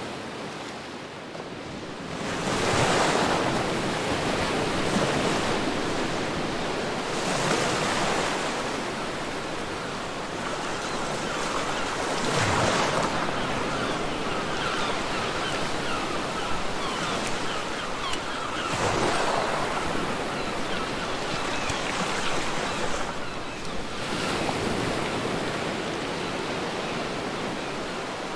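Ocean waves breaking on a beach, a steady wash of surf with a louder wave crashing every four to six seconds.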